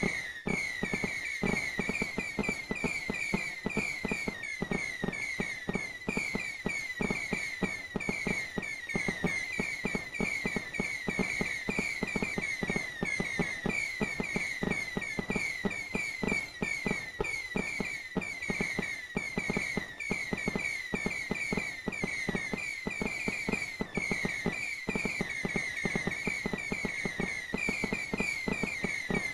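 Fireworks: a dense, unbroken crackle of small pops, with many short high whistles repeating over it several times a second.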